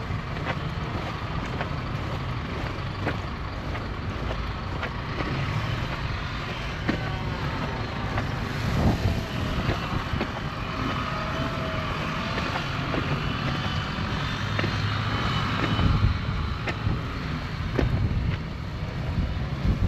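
City street ambience in a snowstorm: steady low rumble of motor traffic, with wind noise.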